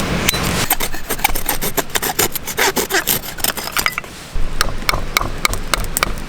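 A thin stick of wood being cut and shaped by hand with a blade to make improvised chopsticks: a quick run of short rasping strokes that starts under a second in, with a brief pause about four seconds in.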